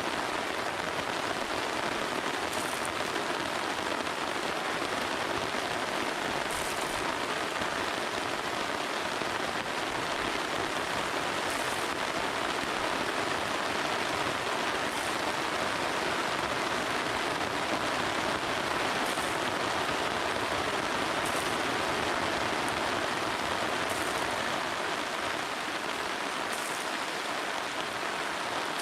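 Steady rain falling, an even unbroken hiss, with faint short high ticks every few seconds.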